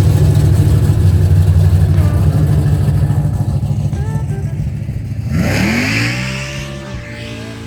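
A car engine running loud and low, then revving up with a rising pitch about five and a half seconds in.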